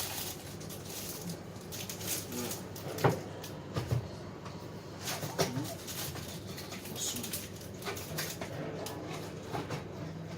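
Close-up eating sounds of a person chewing soft blueberry-jam bread: scattered mouth clicks and smacks, with a few short hums.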